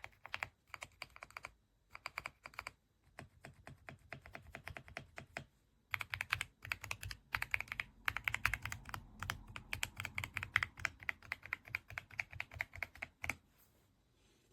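Typing on an EPOMAKER x Aula F99 mechanical keyboard with Graywood V3 switches: quick runs of keystrokes broken by short pauses. It gets denser and louder from about six seconds in and stops shortly before the end.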